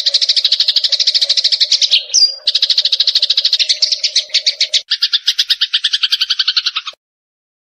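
Eurasian tree sparrows chirping in a fast, even series of short calls. Near five seconds in, the calls change to a fuller, lower-pitched set, and they cut off abruptly about a second before the end.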